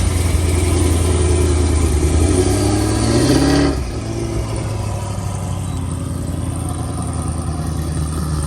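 A car engine accelerating hard, its pitch rising for about three and a half seconds before it drops off suddenly as the throttle is lifted; it then runs on lower and steadier.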